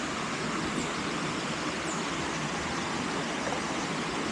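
Waterfall: a steady rush of falling water into a pool, with faint high chirps that drop in pitch repeating about once a second.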